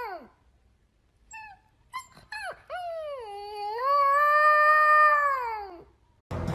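A dog whining and howling. A few short yelps come about two seconds in, then one long howl that rises in pitch and falls away near the end.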